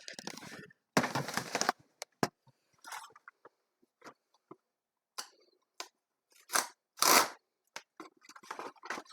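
Crinkling and rustling of food packaging being handled, in scattered short bursts with clicks and light knocks between them.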